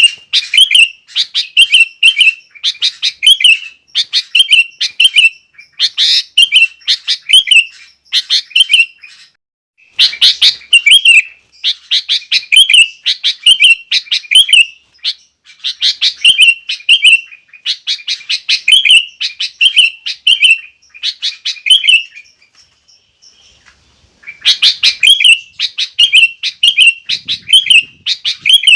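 Sooty-headed bulbul (kutilang) singing loudly in quick, repeated chattering phrases, each a run of sharp notes ending in a short whistled turn, with two brief pauses.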